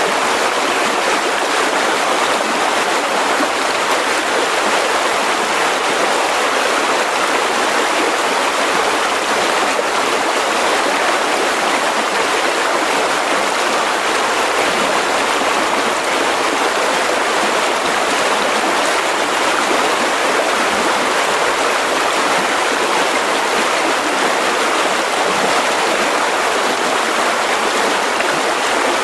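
Mountain river rushing steadily over rocks, a continuous even sound of flowing water.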